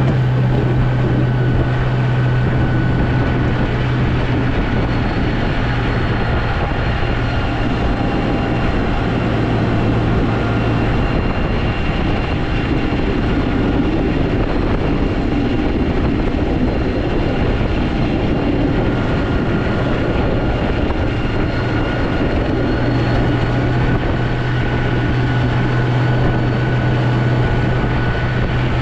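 Snowplow vehicle's engine running steadily: a constant low hum with faint higher whines over it, the hum easing for several seconds midway and then coming back.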